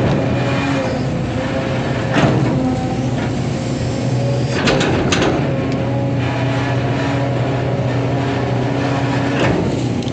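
Excavator's diesel engine running steadily, with a few sharp knocks from the machine working, about two seconds in, twice around the middle, and once near the end.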